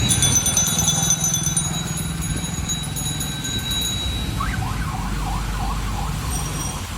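Cycle-rickshaw bells ringing rapidly over steady street-traffic noise, the ringing dying away about four seconds in. A warbling tone rises and falls a few times around the middle.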